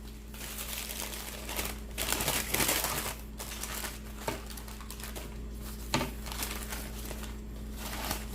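Sandwich wrapping crinkling and rustling as it is handled, loudest about two to three seconds in, with a couple of short sharp clicks later on.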